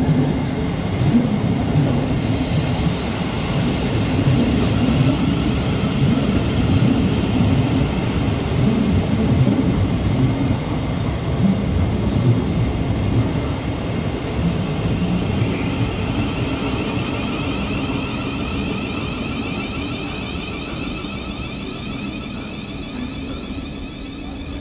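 A Southeastern electric multiple-unit train moving along the platform, giving a steady rumble of wheels on the rails that slowly fades over the second half.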